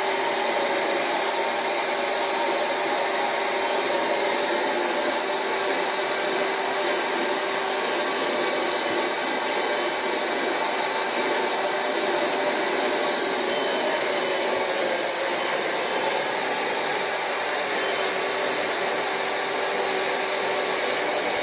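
Rug Doctor carpet extractor running steadily, its vacuum motor pulling air and water through the upholstery hand tool as it passes over mattress fabric.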